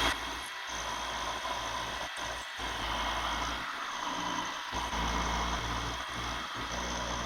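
Milling machine running, cutting a rectangular pocket into the motor mounting plate: a steady machining noise with a few brief dips.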